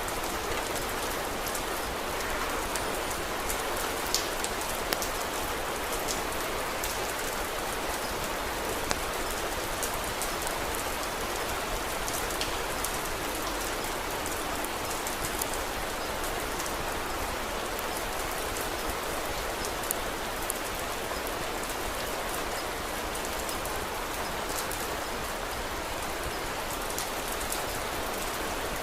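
Steady, even rain, with scattered sharp crackles and pops from a wood fire in a fireplace.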